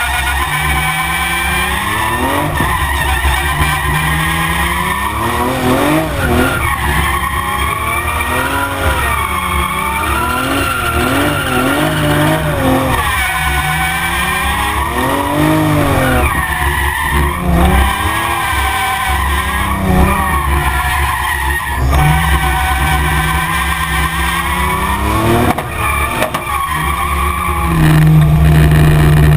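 Toyota Supra's 2JZ straight-six revving up and down again and again as the car drifts, with tyres skidding throughout. Near the end the engine holds a steady, louder note.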